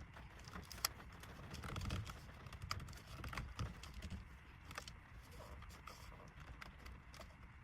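Faint, scattered clicks and taps of paddle shifter extender pieces being handled and fitted onto a car's steering-wheel paddles, over a low steady rumble.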